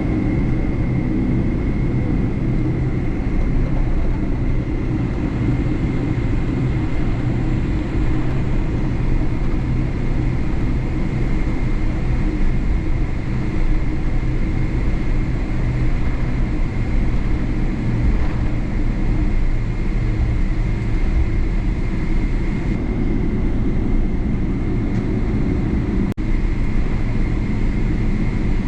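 Boeing 777-300 cabin noise from a window seat: the jet engines run at low power with a steady low rumble and a constant high whine. There is a brief click near the end.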